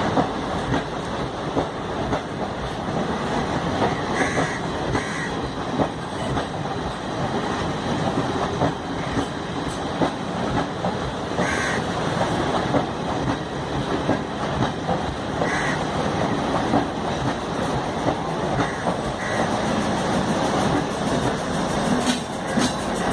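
Diesel multiple unit passenger train running past, with a steady rumble and wheels clicking rapidly over the rail joints.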